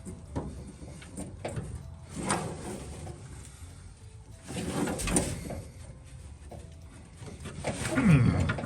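An old screwdriver prying and scraping at a stuck plastic wiring-loom fastener: scattered small clicks and knocks, with a longer scraping rub about halfway. Near the end comes the loudest moment, a short sound that falls in pitch.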